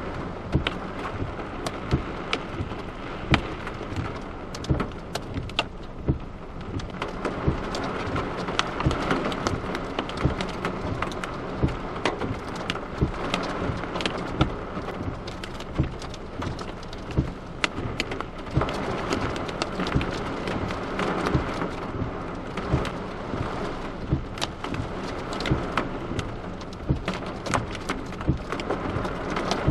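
Heavy rain and hail hitting a car: a dense, irregular patter of sharp ticks over a steady hiss of rain.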